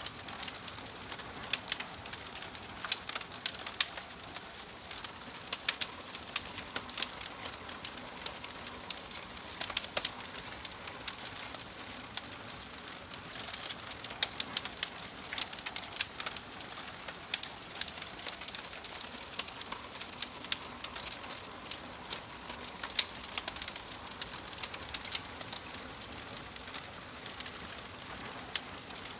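Wood fire in a fireplace crackling, with frequent irregular sharp pops and snaps over a steady soft hiss.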